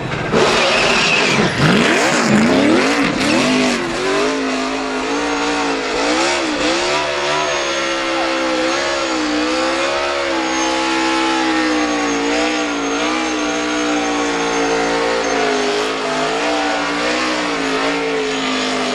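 Race car engine revving hard, with quick rises and falls in pitch over the first few seconds, then running on at a steady, wavering note under throttle.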